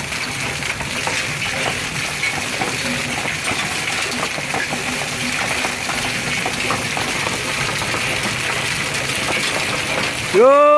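Steady rainfall, a constant hiss of water with many small ticks of drops striking a surface.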